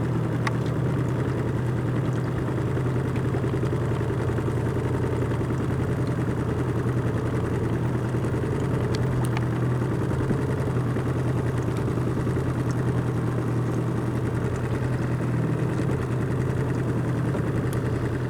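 Small boat's outboard motor running at a steady speed, a constant low drone.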